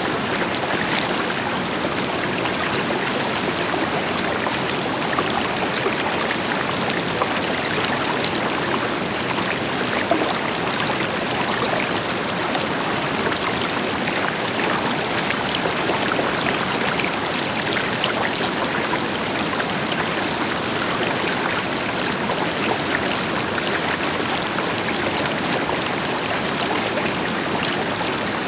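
River water flowing and splashing steadily over rocks, with the deeper rush of a waterfall behind it.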